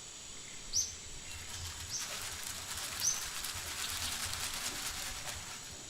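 Outdoor ambience: a small bird chirping every second or so in short falling notes, over a crackly rustling hiss that swells after about a second and fades near the end.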